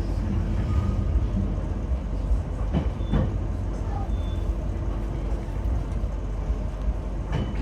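Steady low running rumble heard inside a JR East E721 electric train car, with two brief sharp knocks, one about three seconds in and one near the end.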